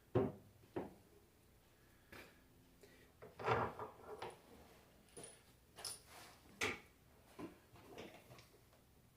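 Scattered light knocks and clinks of metal alternator parts being handled and set down, a cluster of them about three and a half seconds in.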